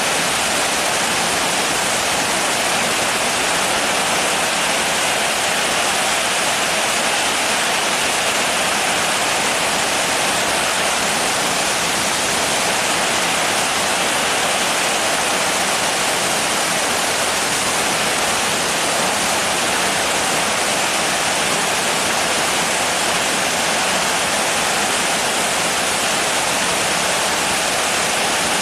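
Rain falling steadily, an even unbroken hiss with no separate drops, thunder or other sounds standing out.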